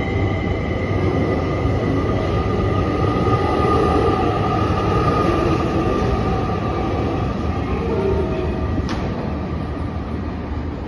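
Electric train running, a steady rumble with faint whining tones over it.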